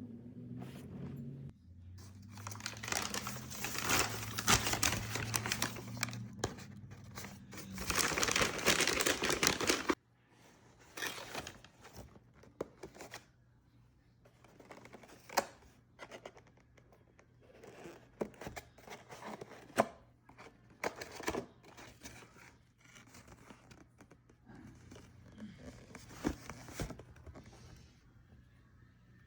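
Crinkly material being torn and crumpled for about eight seconds, followed by scattered light taps and rustles of things being handled. Soft background music plays under the first part and cuts off about ten seconds in.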